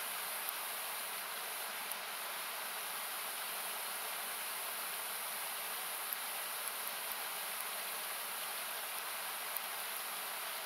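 Steady rushing of a river or small waterfall, its noise partly cut back with an equaliser, with a few faint, scattered crackles from a wood campfire.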